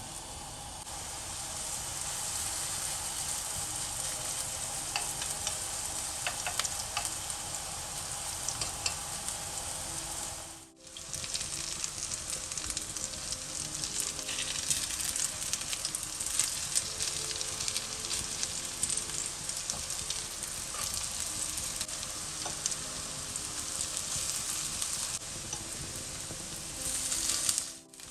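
Cabbage and carrot fritters frying in hot oil in a pan: a steady sizzle, with scattered light clicks and scrapes of a metal spoon and a silicone spatula against the pan as they are basted and turned. The sizzle drops out briefly near the middle and again near the end.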